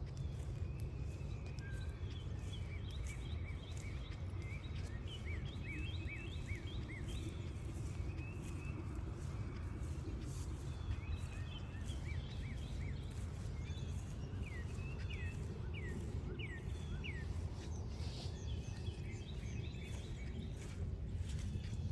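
Wild birds singing: several runs of short, quick repeated notes over a steady low rumble.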